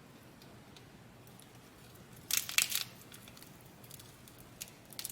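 A short, loud burst of crinkling, about two seconds in, as food packaging is handled, followed by a few faint clicks near the end.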